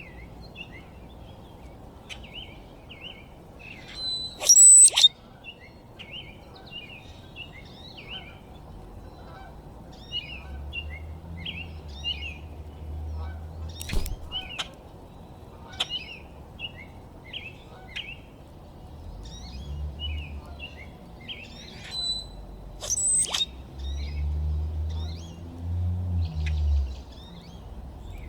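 Small backyard birds chirping and calling in quick, repeated short notes, with two louder, shriller calls about five seconds in and again near the end. A low rumble comes and goes underneath in the second half.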